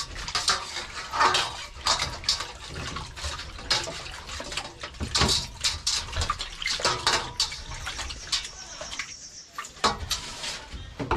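Cutting board being washed in a sink: running tap water with repeated knocks and clatter of the board and dishes.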